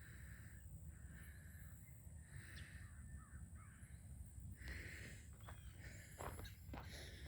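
Distant crows cawing, about four short harsh caws spread over the first five seconds. Footsteps crunch on gravel near the end.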